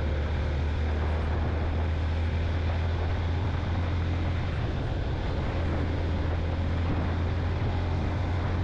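Yamaha motorcycle engine running at a steady cruise, heard from on the moving bike with a constant low drone under wind and road noise.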